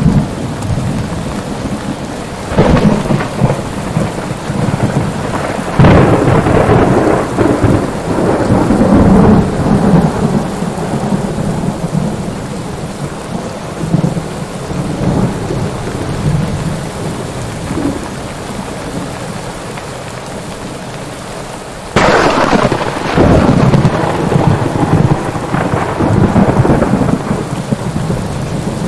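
Steady rain during a thunderstorm, with thunder cracking sharply three times, about two and a half seconds in, about six seconds in and near the end, each crack rolling off into a long rumble.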